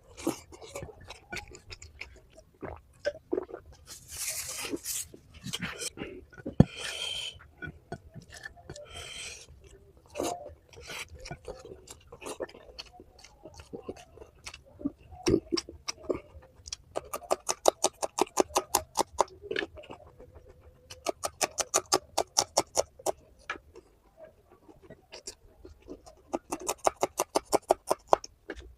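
Close-miked mouth sounds of someone eating curry and rice: scattered clicks and a few short noisy bursts in the first half, then three runs of rapid smacking, about eight smacks a second, in the second half.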